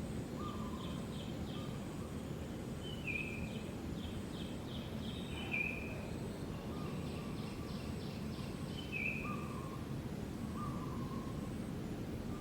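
Birds calling repeatedly over steady outdoor background noise: short clear notes, some with quick stuttering trills, every second or two.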